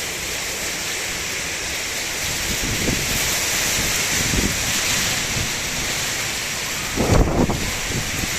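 Heavy rain mixed with hail pouring down in a strong wind, a dense steady hiss. Gusts buffet the microphone with low rumbles, the strongest about seven seconds in.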